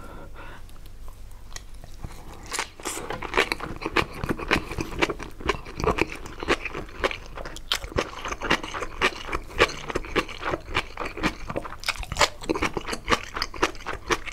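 Close-miked ASMR chewing of a mouthful of rice topped with kimchi: crisp, wet crunches, several a second, starting about two and a half seconds in.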